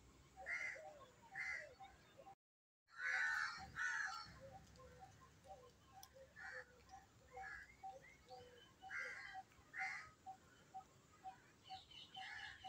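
Several birds calling: a steady run of short high notes about two a second, with louder, harsher calls every second or two. The loudest burst comes about three seconds in, right after the sound drops out completely for a moment.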